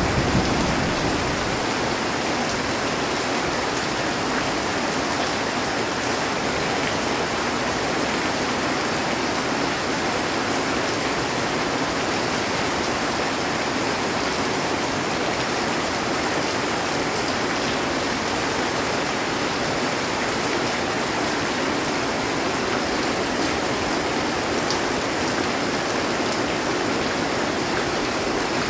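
Heavy rain falling steadily on a metal roof, an even, unbroken hiss. A low thunder rumble dies away in the first second or two.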